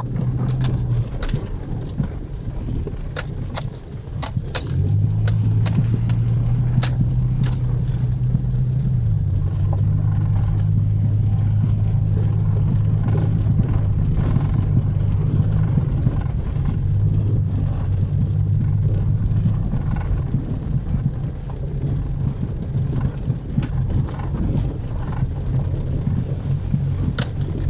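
Car cabin noise while driving: a steady low engine and road drone that shifts level and pitch a few times, with scattered small clicks and rattles.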